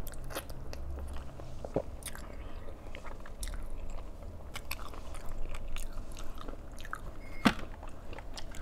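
Close-miked chewing and mouth sounds of a person eating, with many short clicks and one louder, sharper click near the end.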